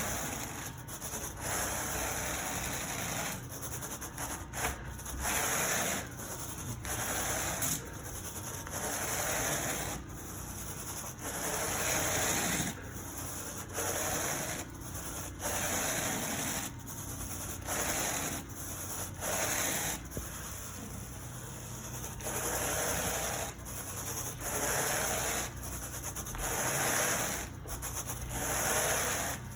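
A carpet tool worked over carpet pile in steady back-and-forth strokes: a scraping rub about every second or so over a constant hiss.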